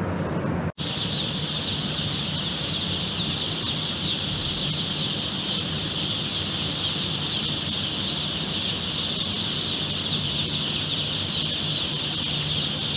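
A dense, continuous chorus of a large broiler flock peeping and chirping, over a steady low machine hum. It begins after a brief cut about a second in, which replaces a lower rumbling sound.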